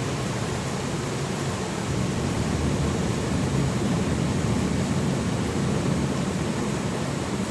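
Low rumble of distant thunder over a steady hiss of storm noise, swelling from about two seconds in and easing off near the end.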